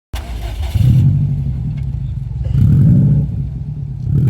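Boxer four-cylinder car engine being revved, its note swelling up and dropping back about three times.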